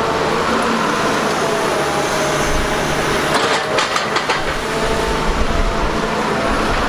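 Steady machine-like engine noise, with a short run of clattering clicks about three to four seconds in.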